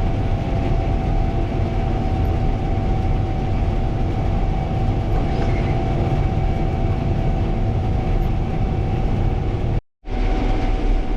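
Gleaner R72 combine running while harvesting, heard from inside the cab: a steady engine and machinery drone with a constant whine over it. It cuts out for an instant near the end.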